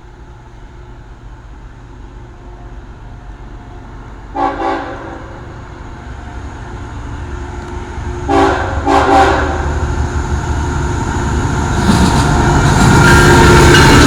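Freight train approaching: the locomotive's horn sounds once about four seconds in, then twice in quick succession about eight seconds in, over a rumble of engine and wheels that builds and grows loud over the last two seconds as the double-stack train draws level.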